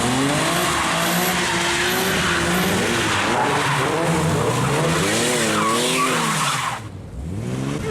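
Car engine revving up and down hard while its tires squeal and skid. The sound dips for a moment near the end, then the revs climb again.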